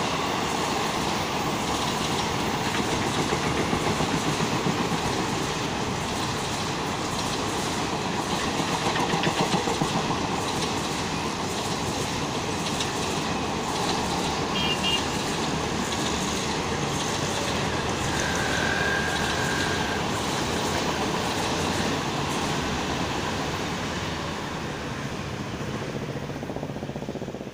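Blue passenger coaches of an Indian Railways express train rolling past at speed, a steady rolling noise that eases off near the end as the last coach goes by.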